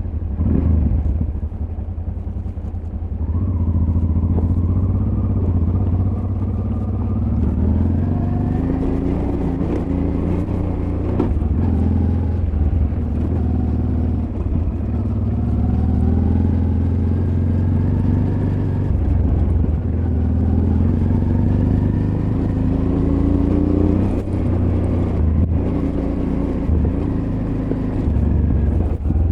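Honda Transalp XL600V's V-twin engine pulling off-road, its revs rising and falling repeatedly as the rider works the throttle, with occasional clatter from the rough ground.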